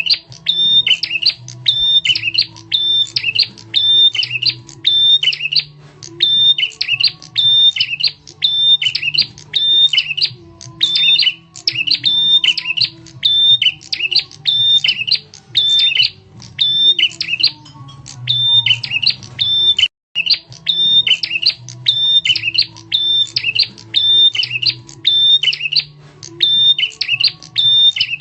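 Looped lure recording of a prenjak tamu (a prinia) calling: loud, sharp chirping phrases repeated one or two times a second over a low steady hum, with a momentary break about twenty seconds in.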